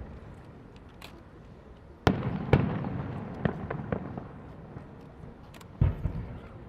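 Fireworks shells bursting: a loud bang about two seconds in, a second soon after, then smaller pops and crackle, and another bang near the end, each followed by a rumbling tail.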